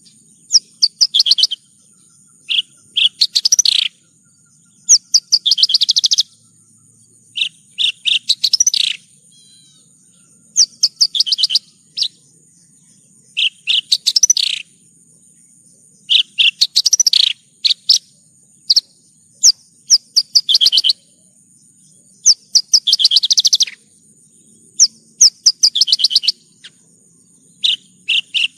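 Javan bush lark (branjangan) singing: short phrases of rapid chirping notes, each a second or two long, repeated every two to three seconds, with a faint steady high tone underneath.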